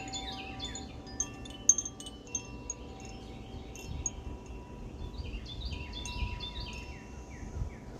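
A Fire element Koshi chime tinkling, its rods struck by the clapper in loose, irregular clusters of ringing notes. The strikes thin out around the middle and come thick again from about five seconds in.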